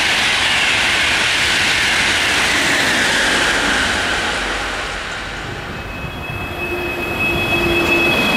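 Frecciarossa high-speed train passing at speed: loud rushing rail noise with a whine that falls in pitch as it goes by. The noise eases about five seconds in, then the next train approaches with a steady high-pitched ringing and building rumble.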